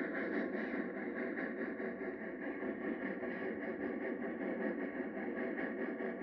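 Steam locomotive working, heard as a steady, thin noise with a faint, fast, even pulsing and no deep bass.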